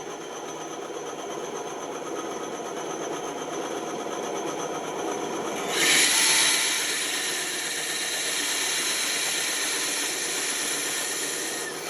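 Woodworking power tool running steadily; about six seconds in a louder, hissing sound starts as it works into wood and carries on to near the end.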